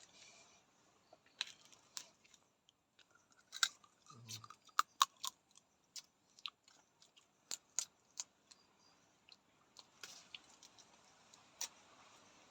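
Grilled crab being eaten: shells cracking and crunching in a run of sharp, irregular clicks, with chewing between them.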